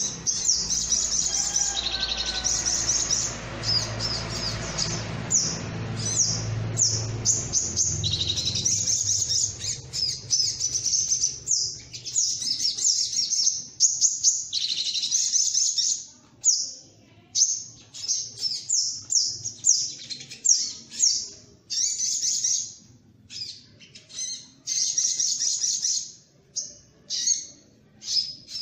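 Sogok ontong (spiderhunter) calling: rapid, high-pitched chirping trills, almost continuous at first and then coming in short phrases with brief pauses. A low rumble runs under the first few seconds.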